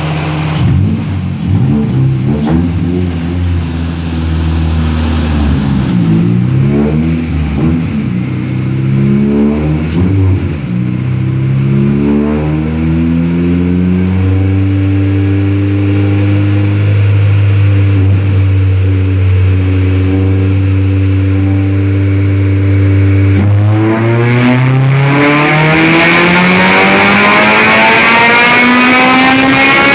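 Honda Civic's K20 four-cylinder engine running hard on a chassis dyno. For about the first ten seconds it revs up and down unevenly, then it holds almost steady. Just before the last six seconds the pitch dips and then climbs smoothly and continuously, as in a power pull through the rev range.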